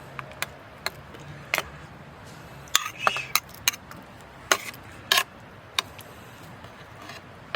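Metal utensils and camp cookware clinking and knocking: a dozen or so sharp, irregular clinks while food is served into dishes.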